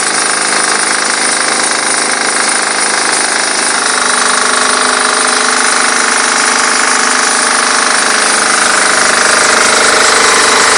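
Diesel engine of a mobile high-pressure washer running steadily under load, with the hiss of the high-pressure water jet; the sound shifts in tone about four seconds in.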